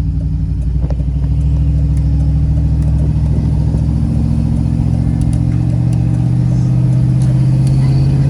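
Engine and road noise of a vehicle towing a pickup truck, heard from inside its cab: it picks up speed over the first couple of seconds, then runs steadily.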